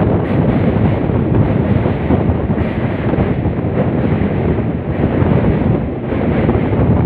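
Wind blasting steadily across the microphone, over the running noise of a moving passenger train.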